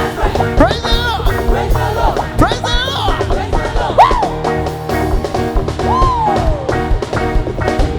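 Live band playing upbeat praise music with a steady driving beat, with sliding notes that rise and fall over it.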